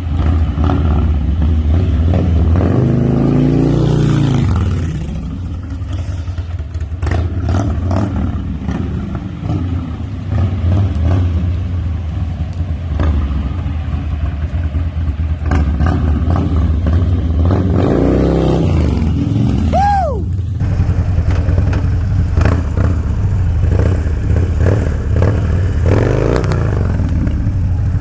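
Motorcycle engine running under throttle, the revs rising and falling a couple of times as the rider works the bike into slides on wet pavement.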